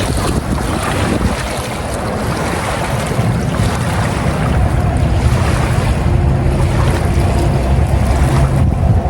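Wind buffeting the microphone outdoors: a loud, fluctuating low rumble with a noisy hiss above it.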